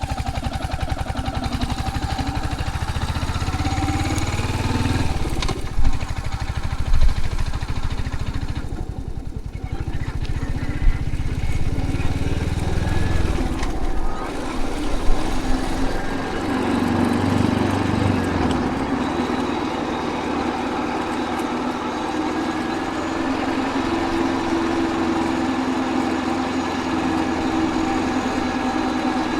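Royal Enfield Hunter 350's single-cylinder engine running while the motorcycle is ridden. A deep rumble fills the first half, and from about halfway a steadier, higher hum takes over.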